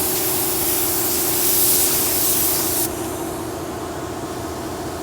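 Compressed-air paint spray gun spraying in one continuous hiss that cuts off abruptly about three seconds in, over a steady low hum.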